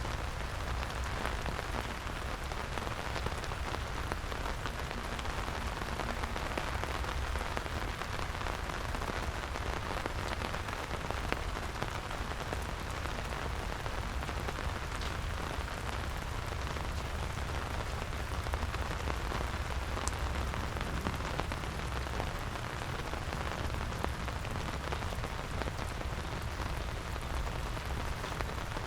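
Steady rain falling, with a constant hiss of drops and many small patters close by, over a low rumble.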